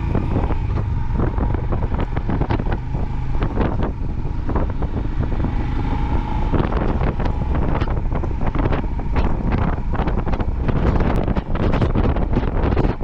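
Motorcycle riding along, its engine running under heavy wind buffeting on the microphone; the gusting grows stronger about halfway through.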